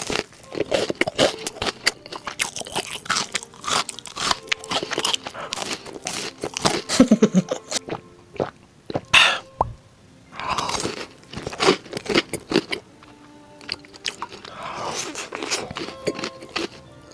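A person biting into and chewing financiers close to the microphone, with many crisp crunches and wet chewing sounds, over soft background music.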